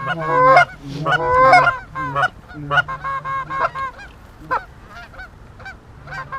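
Goose calls blown hard and fast by hunters, a rapid run of goose honks and clucks aimed at an approaching flock of geese. The calling is loudest and densest for about four seconds, then falls to fainter, sparser honks.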